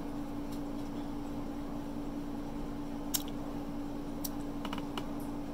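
Close-miked mouth-closed chewing of stuffed-crust pizza, with a few short wet mouth clicks about three seconds in and again near the end, over a steady low hum.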